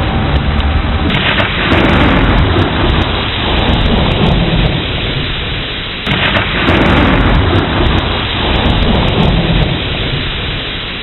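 Steady rain with two rolls of thunder, one about a second in and another about six seconds in, each starting suddenly and dying away over a few seconds.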